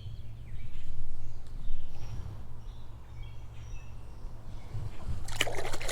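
Outdoor streamside ambience: a steady low rumble with faint, short bird chirps in the middle, and a brief noisy burst near the end.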